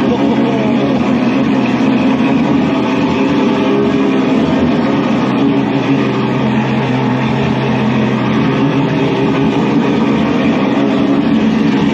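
Ferrari 812 Superfast's 6.5-litre V12 idling steadily through a Novitec straight-pipe exhaust with the valves open, soon after a cold start from three weeks standing.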